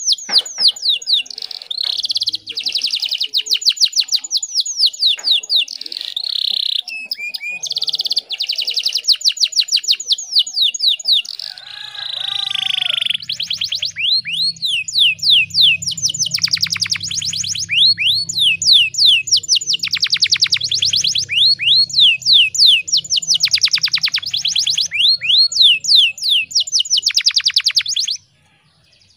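Canary singing long, fast rolling trills of rapidly repeated high notes, phrase after phrase. A faint low hum runs under the song from about halfway, and the song cuts off suddenly about a second before the end.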